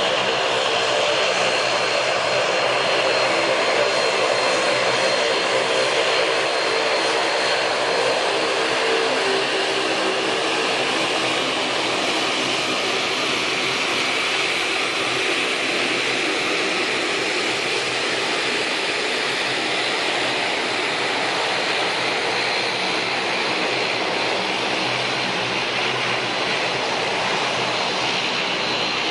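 Boeing 787-9 Dreamliner's jet engines running steadily: a broad rush with a thin high whine on top.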